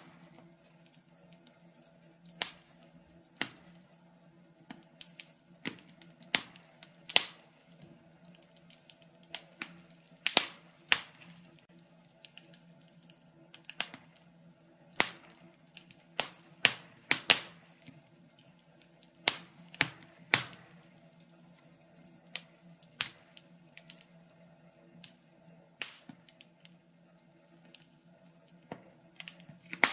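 Wood fire crackling in a fireplace: irregular sharp pops and snaps, several of them loud, over a faint steady hum.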